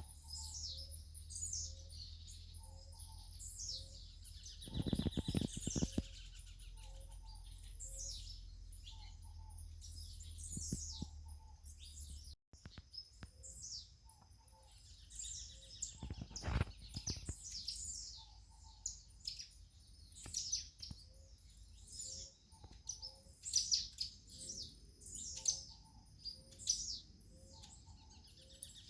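Several small birds chirping and twittering in overlapping high calls, with a lower two-note call repeating about once a second. Two dull thumps cut through, about five seconds in and again around sixteen seconds.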